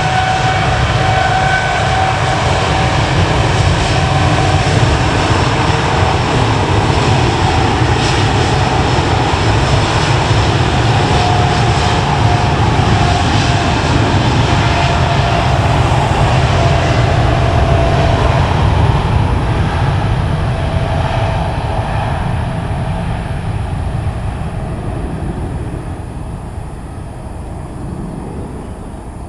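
Boeing 787-9 Dreamliner's Rolls-Royce Trent 1000 turbofans at takeoff power: a deep rumble with a whine that slowly drops in pitch as the jet passes, then fades away over the last ten seconds or so as the aircraft climbs out.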